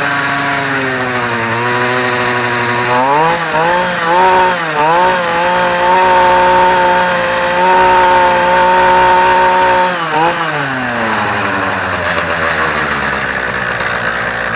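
Motorized BMX's small engine running through a homemade muffler with a longer tailpipe. It revs up about three seconds in, blips up and down, holds at high revs for several seconds, then drops back to a lower, steady run. The exhaust is loud and has no baffle.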